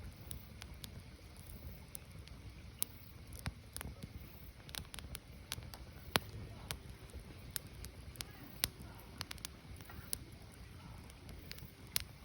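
Firewood burning: irregular sharp crackles and pops, a few each second, over a steady low rumble.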